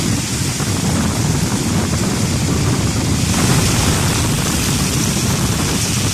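Heavy rain and hail falling in strong wind, with wind buffeting the microphone as a low rumble. The hiss of the downpour swells about halfway through.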